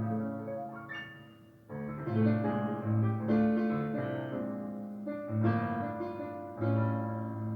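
Background piano music: slow chords struck every second or so and left to ring and fade, with a short pause about two seconds in.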